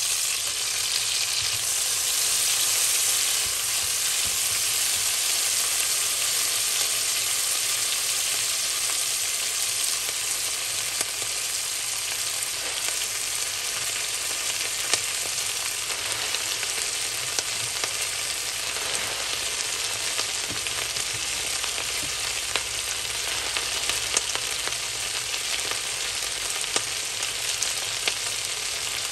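Oil and vegetables sizzling in a pot under a heap of freshly added kale: a steady frying hiss with scattered small pops, easing a little after the first few seconds.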